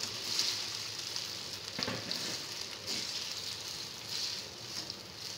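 Boiled spaghetti sizzling in hot oil in a kadhai while being stirred and tossed with a slotted spatula: a steady frying hiss that swells and fades as it is turned, with a single louder knock about two seconds in.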